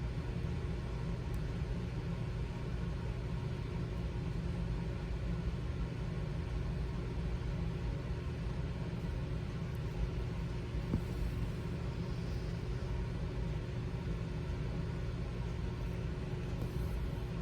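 Steady low background rumble with a faint hum and no pitch changes, and a couple of small clicks about eleven seconds in.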